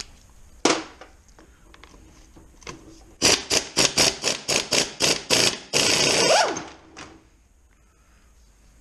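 Socket ratchet undoing a fastener on a gearbox casing: a single click, then a quick run of ratcheting strokes at about four a second, ending in one longer run before it stops.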